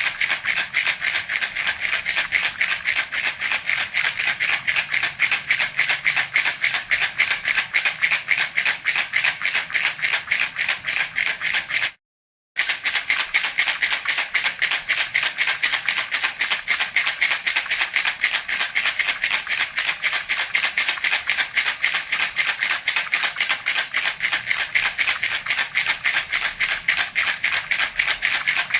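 Baby rattle (jhunjhuna) shaken rapidly and evenly in a steady, bright rattle, breaking off for about half a second near the middle.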